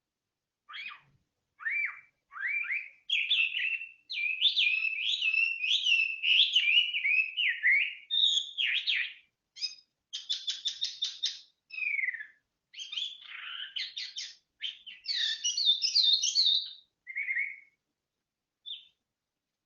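A songbird singing a long, varied song of whistled phrases with short pauses between them, including a fast run of about eight repeated notes near the middle.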